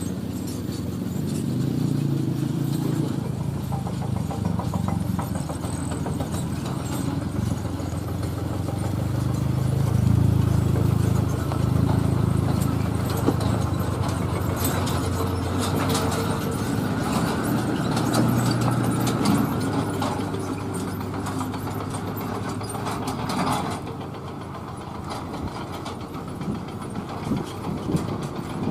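Truck engine running as heavy trucks drive by, its note rising and falling, with clattering rattles through the middle stretch; the sound turns duller and quieter about three quarters of the way through.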